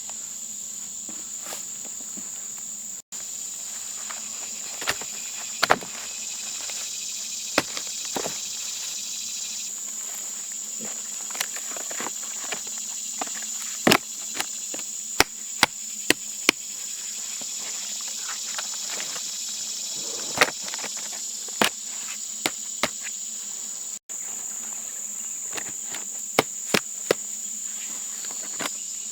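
Steady chirring of crickets or other insects, with scattered sharp knocks and cracks from camp work, some loud, at irregular intervals.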